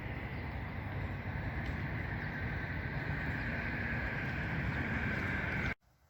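Steady city traffic noise, a low rumble with a hiss, which cuts off suddenly near the end.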